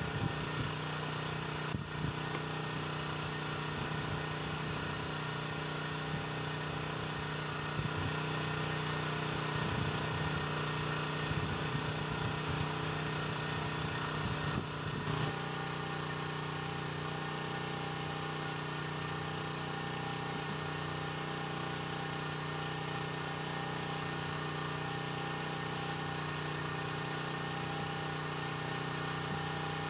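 A small engine running at a steady speed with an even hum. In the first half an uneven low rumble sits under it and drops away about halfway through.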